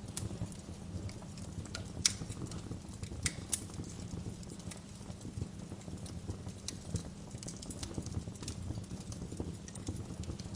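Wood fire burning in a fireplace: a steady low rumble of flames with irregular crackles and sharp pops, the loudest about two seconds in.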